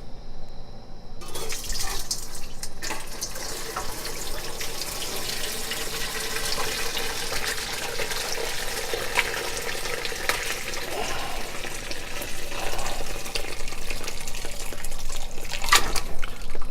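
Chicken stock being poured from the stockpot through a colander: a steady splashing pour of liquid that starts about a second in.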